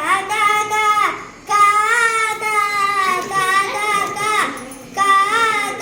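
A child singing a melody in long, wavering held notes, with short breaths between phrases.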